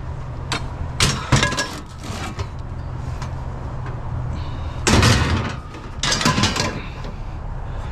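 Iron fireplace andirons being handled, clanking against each other in three short bursts of metal strikes: about a second in, around five seconds in and again a second later. A steady low hum runs underneath.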